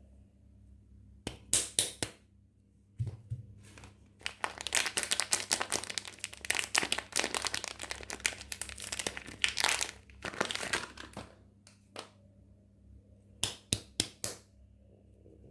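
Soap packaging being handled and unwrapped, crinkling and tearing. A few sharp crackles come first, then a long dense run of crinkling, then a few more crackles near the end.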